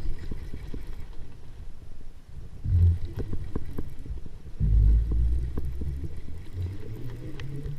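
Low rumbling and repeated knocks on the camera's microphone, the kind made by wind or handling noise, with two louder rumbles about three and five seconds in.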